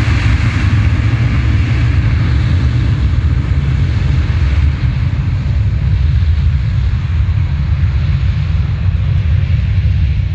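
Jet airliner engines running loud and steady, a deep rumble under a hiss that gradually fades.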